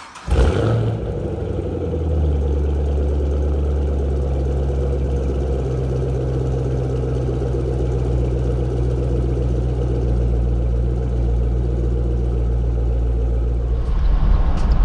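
Chevrolet Camaro ZL1's supercharged 6.2-litre V8 starting up, flaring briefly, then settling into a steady, deep idle.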